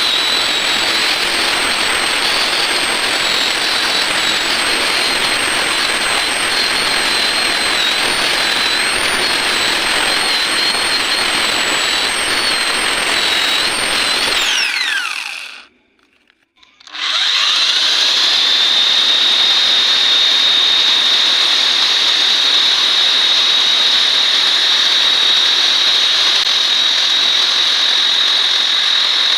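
Electric hand grinder running with a high, wavering whine. About halfway through it is switched off and the whine falls as it spins down. After a short pause it starts again, rising to speed and running steadily with a high whine.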